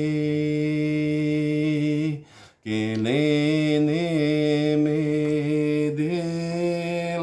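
A man's voice chanting long, held notes, without words: one drawn-out tone, a short break about two seconds in, then a second long tone that wavers slightly in pitch.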